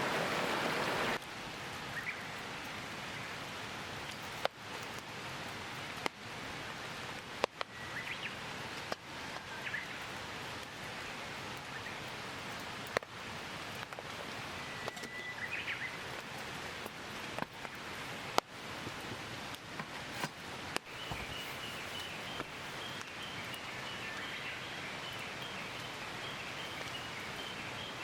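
Forest ambience: a steady hiss of light rain with scattered drops ticking irregularly, a few short bird chirps, and from about three quarters of the way in a bird's rapid series of high notes. A louder rush of water cuts off about a second in.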